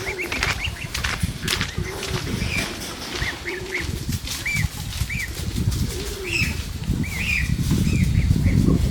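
A flock of birds calling, with repeated short high peeps about twice a second and a few lower calls among them, over wings flapping and rustling that grow louder near the end.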